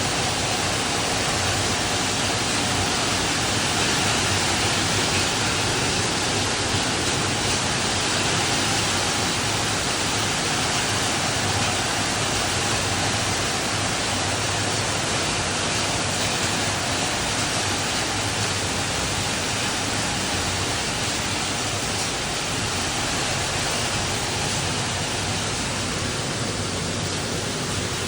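Steady, even rain, heard as a continuous hiss without a break.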